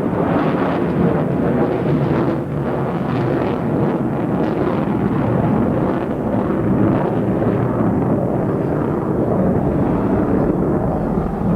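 B-1B Lancer's four F101 afterburning turbofans, a loud, steady jet roar with no break or pitch glide.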